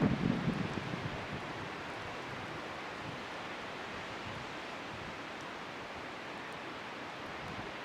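Wood bonfire burning in a strong wind: a steady rushing hiss, with a louder low gust during the first second and a few faint crackling ticks.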